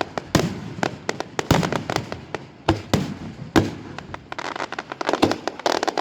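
Fireworks going off: a run of sharp bangs at irregular intervals, the louder reports echoing, with a dense run of rapid crackling near the end.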